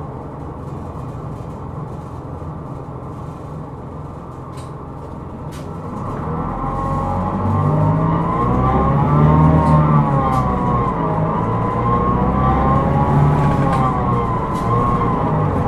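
Hino Rainbow II bus running. About six seconds in it gets louder as it pulls harder, and a whine sets in that wavers up and down in pitch: the abnormal noise that the recording flags.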